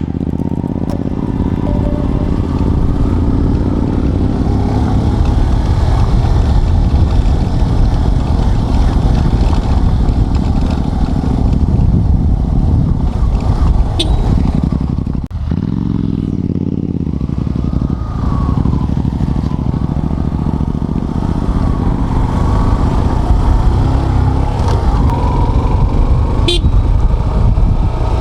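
Yamaha FZS's single-cylinder engine running while riding, mixed with heavy wind rumble. About halfway through the sound dips briefly, then the engine note comes back and rises.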